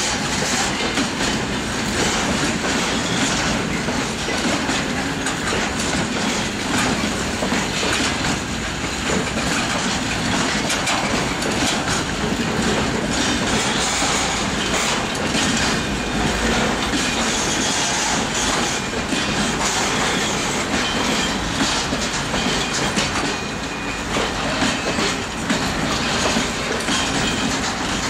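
Freight train wagons rolling past close by, their wheels clattering steadily over the rail joints.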